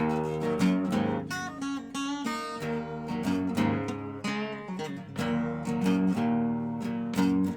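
Dobro resonator guitar played solo, with repeated plucked and strummed chords ringing out in a blues riff.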